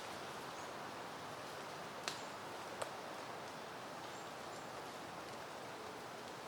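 Soft, steady wind rustling through flowering peony plants and leaves. Two sharp clicks come about two seconds in, under a second apart, and a few faint high chirps sound now and then.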